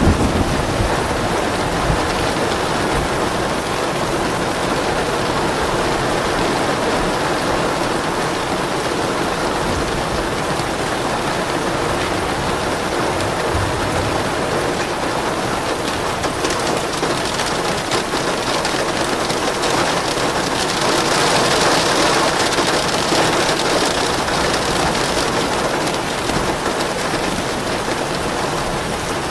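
Steady rain falling, with a low rumble of soft thunder near the start. The rain swells louder for a few seconds about twenty seconds in.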